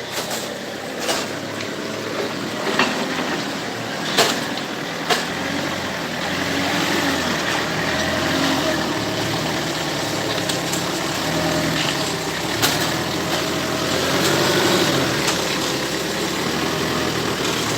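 Truck engine idling steadily, with a handful of sharp knocks scattered through it.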